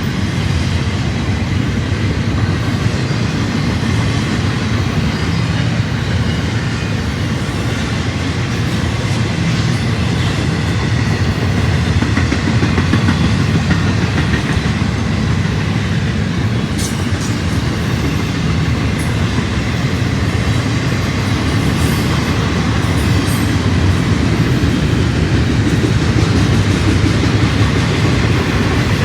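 A train rolling steadily past, its cars' wheels clacking over the rail joints with a continuous rumble.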